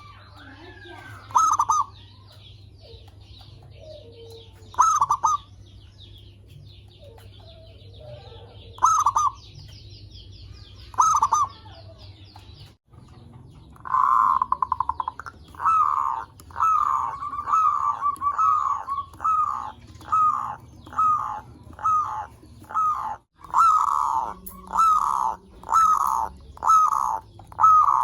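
Zebra doves (perkutut) cooing: a few spaced single coos in the first half, then from about halfway a quick, regular run of clipped coos, a little over one a second. A faint high chirping sits under the first half.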